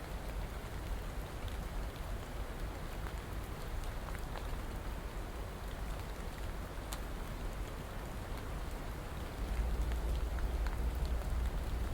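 Steady rain falling, an even hiss with scattered ticks of single drops. A low rumble comes up and the whole sound grows a little louder near the end.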